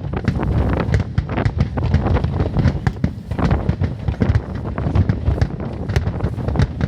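A dense, continuous barrage of fireworks going off: many sharp bangs and crackles every second, overlapping without a pause.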